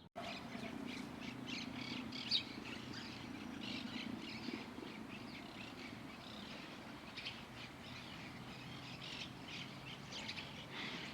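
Many small birds chirping, a dense run of short, high chirps, over a steady low background hum.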